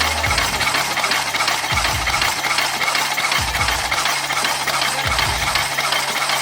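A machine running with a steady, loud mechanical noise and a deep thump about every second and a half.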